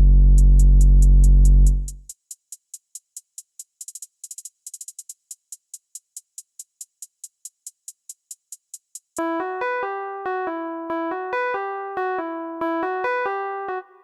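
Trap-style beat programmed in FL Studio: a deep 808 bass under keys drops out about two seconds in, leaving fast hi-hats ticking about four times a second with two quick rolls. About nine seconds in a plucked keyboard melody comes in over the hi-hats, and the whole beat cuts off near the end.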